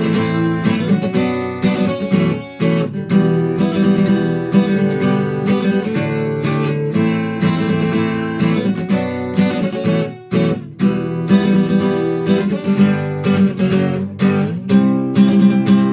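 Acoustic guitar strumming chords in a steady rhythm, an instrumental passage between sung verses, with a brief break about ten seconds in.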